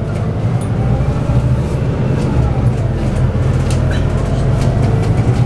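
Inside a Scania N280UD double-deck bus with its 9-litre biogas engine and ZF automatic gearbox, on the move: a steady low engine and drivetrain drone with a faint whine that slowly rises and falls, and scattered rattles and clicks from the bodywork.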